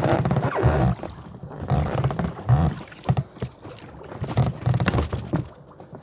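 Wind buffeting the microphone in uneven low rumbling gusts.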